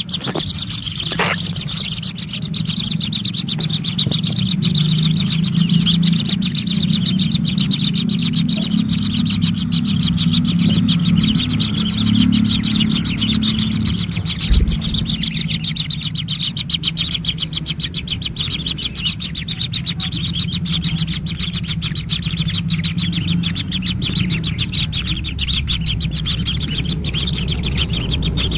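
Birds chirping in a fast, continuous high trill, over a steady low hum.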